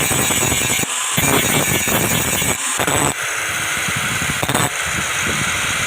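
A power tool running on metal, with the sound cutting abruptly to a different pass or tool three times.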